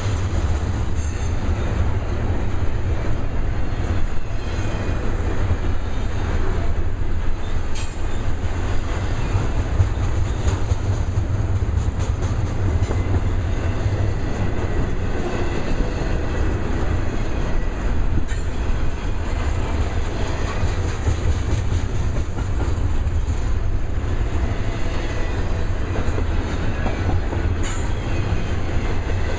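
Stack train of container cars rolling past, a steady heavy rumble with wheels clicking over the rail joints.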